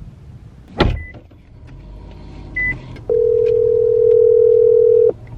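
An outgoing phone call ringing out: a loud steady ringback tone sounds once for about two seconds, the line waiting to be answered. Before it come a single thump and two short high beeps, over a low steady hum.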